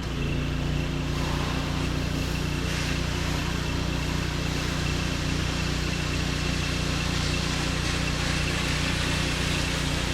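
Gas-engine pressure washer running steadily, with the hiss of the wand spraying through a low-pressure soft-wash tip. A faint steady high whine sits over the engine hum.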